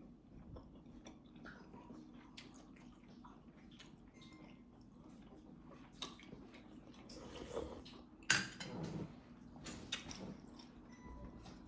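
Quiet eating sounds: a person chewing beef momo, with scattered light clinks of cutlery against a dish, the loudest about eight seconds in.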